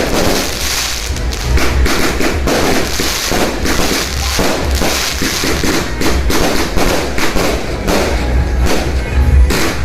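Dense New Year's fireworks: a continuous barrage of sharp bangs and crackling, several reports a second, over deep booms, with music playing.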